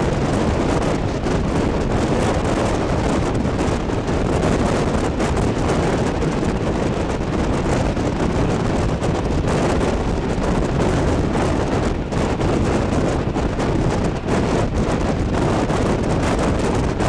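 Moving train: a steady rush of running noise and wind, with wind buffeting the microphone.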